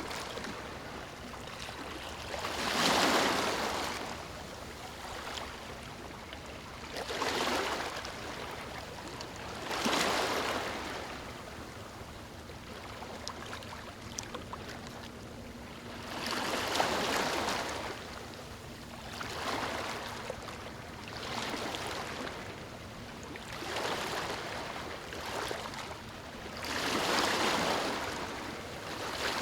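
Small waves washing in one after another, about eight swells of rushing water that rise and fall every few seconds over a steady background wash.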